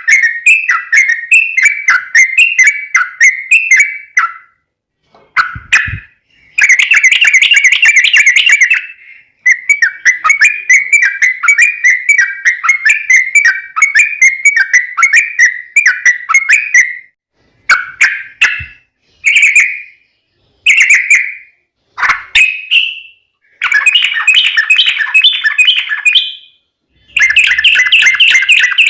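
Yellow-vented bulbul (trucuk) singing: loud, bubbly chattering phrases of rapid notes, some running on for several seconds, broken by short pauses and a few brief calls.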